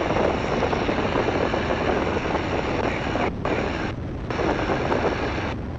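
Great Lakes open-cockpit biplane in flight: steady engine, propeller and wind noise heard through the headset intercom. The upper part of the noise drops out briefly three times in the second half.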